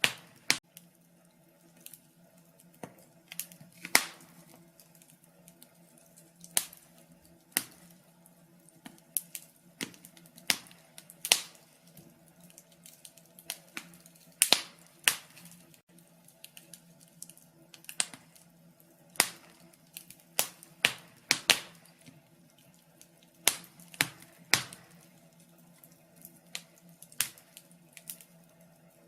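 Wood fire crackling in a fireplace: irregular sharp pops and snaps, roughly one or two a second at uneven intervals, over a faint steady low hum.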